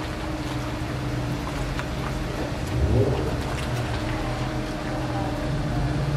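Jaguar car engines running at low speed as the cars move off, a steady low hum with a short louder surge of rumble about three seconds in.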